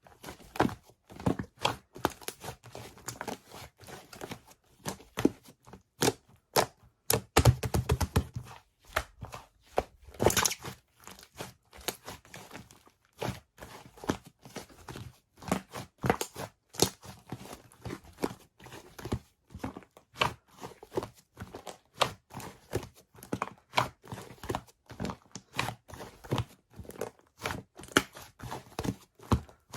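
A large fluffy slime being squeezed and poked by hand, giving many irregular sticky pops and crackles, with a dense run of them about seven to eight seconds in.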